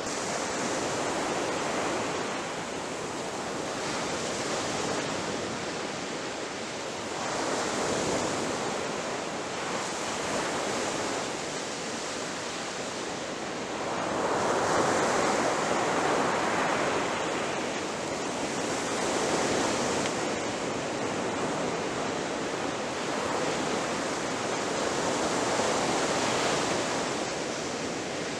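Ocean waves breaking on a shore in a continuous wash of surf, swelling and fading every few seconds, with the biggest surge about halfway through.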